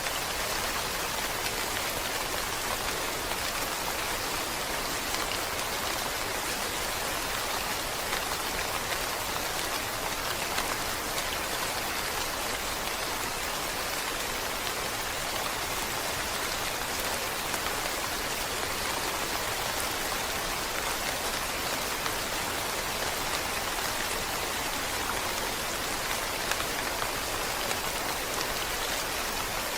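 Steady rain falling, a dense even hiss of drops with faint scattered patters.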